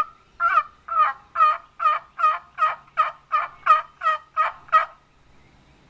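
Turkey box call worked by hand, loud and close: one drawn-out note, then about a dozen evenly spaced yelps, roughly four a second, stopping shortly before the end.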